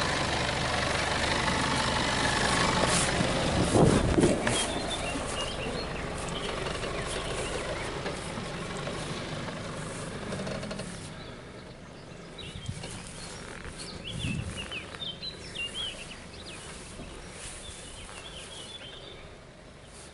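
Nissan Patrol 4x4's engine running as it crawls over rough ground close by, with a loud thump about four seconds in, then fading as the vehicle drives away.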